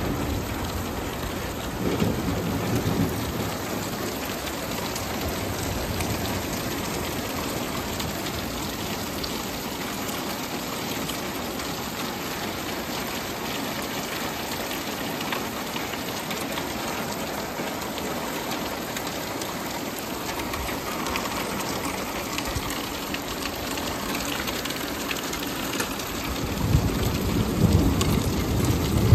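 Heavy rain falling steadily on a wet paved lot and parked cars, an even hiss, with a louder low rush about two seconds in and again near the end.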